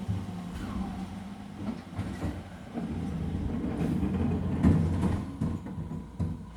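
Garbage truck's diesel engine running with a steady low rumble, and several knocks and clatters of its recycling collection gear, the loudest just before five seconds in. It quietens near the end.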